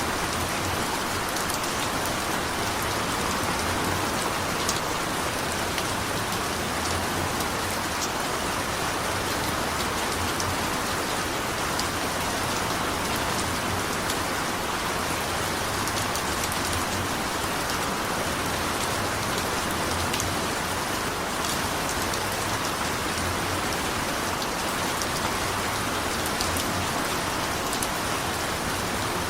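Steady, even rain falling on a hard surface, a dense patter of drops with no let-up.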